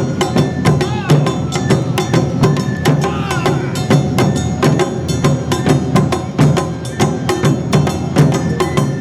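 Awa Odori festival band (narimono) playing. Drums and a sharp, clacking struck percussion beat a fast, even rhythm under held melody tones.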